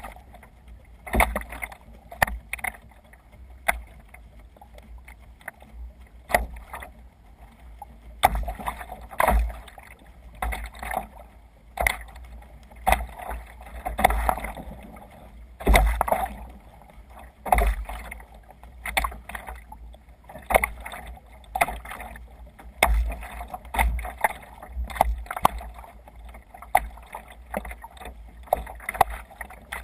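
Water slapping and splashing against the hull of a Seaward Passat G3 sea kayak under sail in waves, in irregular splashes about once a second, with a low rumble underneath.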